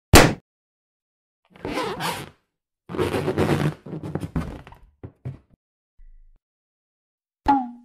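A run of separate short sound effects with silence between them: a sharp thunk, two noisy rushes each under a second long, a quick scatter of knocks, and a last hit that drops in pitch into a brief low tone.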